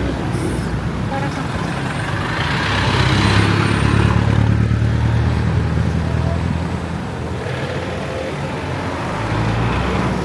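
City street traffic with a motor vehicle's engine running close by. Louder traffic noise swells past about two seconds in and again near the end.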